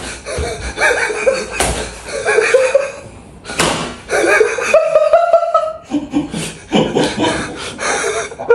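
People laughing and chuckling with bits of voice, broken by a few sharp impact sounds.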